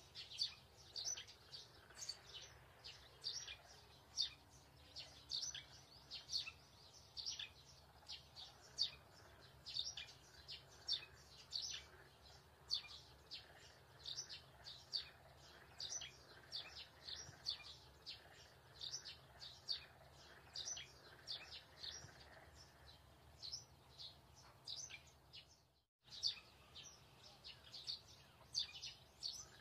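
A small bird chirping over and over, about two short high chirps a second, with a brief cut-out near the end.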